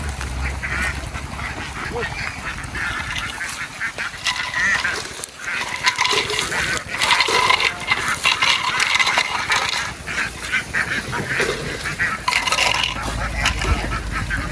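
A large flock of domestic ducks quacking all at once, a dense chorus of overlapping calls that swells loudest in the middle. A low steady hum sits underneath at the start and again near the end.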